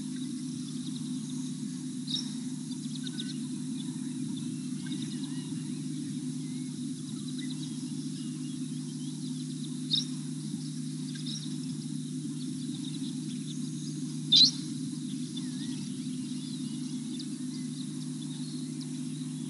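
Wild birds giving a few short, high chirps, the loudest about two-thirds of the way through, over a steady low hum.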